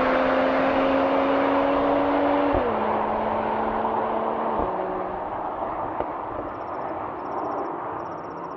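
Mercedes-AMG E 53's 3.0-litre twin-turbo inline-six pulling hard, its note climbing slowly. It drops in pitch with a quick upshift of the nine-speed automatic about two and a half seconds in, and again about two seconds later. The engine then fades under steady tyre and wind noise.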